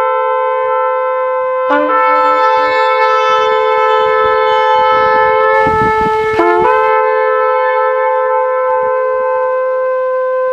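Shofars sounding long, held blasts that overlap one another. New blasts come in about two seconds and six and a half seconds in, each opening on a brief lower note before jumping up to the held tone.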